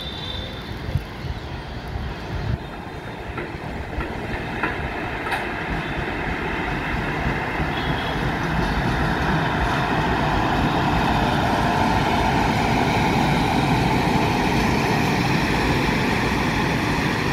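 Express train hauled by an electric locomotive passing: the rumble of the locomotive and coaches grows louder over the first half as it draws near, then holds steady as the coaches roll by, with the wheels clicking over rail joints.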